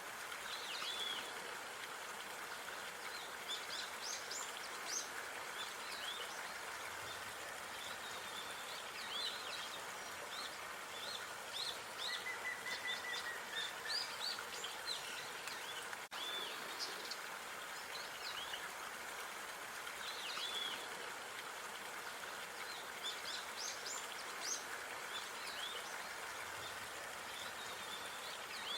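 Park ambience of many small birds chirping and singing, short high notes coming throughout, with a brief trill about midway, over a steady background hiss.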